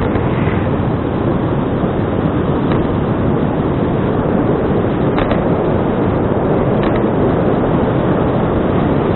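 Wind rushing over an action camera's microphone while riding a bicycle at speed: a loud, steady rush with a few faint clicks.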